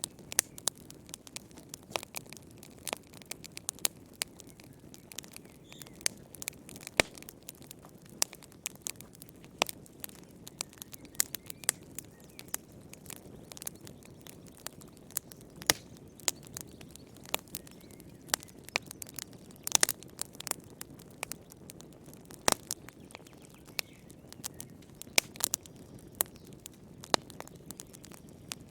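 Wood fire crackling in a fireplace: irregular sharp pops and snaps, several a second, over a soft low hiss of burning.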